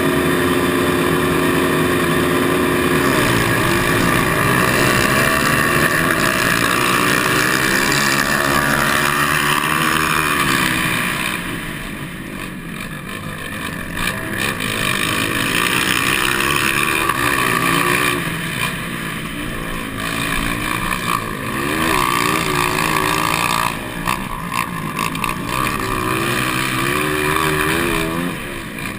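200cc motocross bikes' engines revving as they race, the pitch rising and falling over and over. For the first three seconds there is a steady, even engine tone before the revving takes over.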